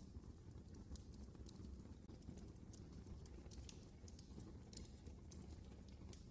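Wood fire in a fireplace crackling faintly: irregular sharp pops and snaps, several a second, over a low steady rumble of the flames.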